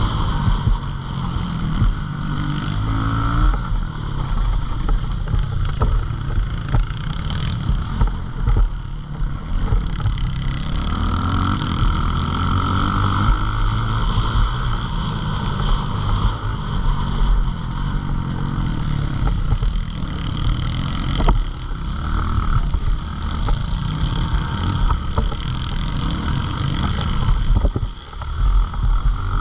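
Pit bike engine revving up and down, its pitch rising and falling again and again, over a heavy low rumble.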